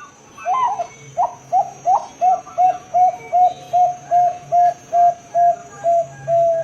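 Zebra dove (Bangkok perkutut) singing: a few higher, bending opening notes about half a second in, then a run of short coos at an even pitch, about two to three a second.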